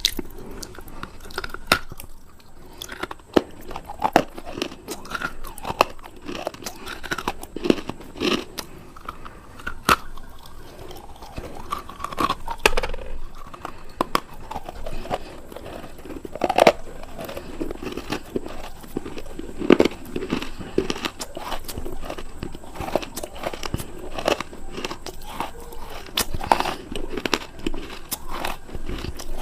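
Close-miked biting and chewing of a hard, dry, crunchy food, with sharp crunches and crackles at irregular moments between softer grinding chews.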